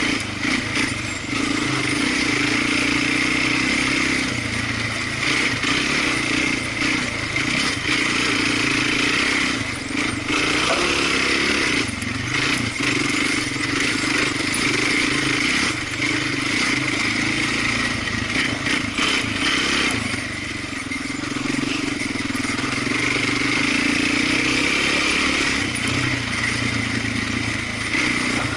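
Off-road vehicle engine running under load through the whole stretch, the revs rising and falling, with a few sharp clatters.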